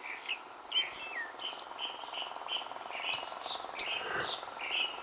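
Birds chirping: many short, high calls repeating through, some gliding down in pitch.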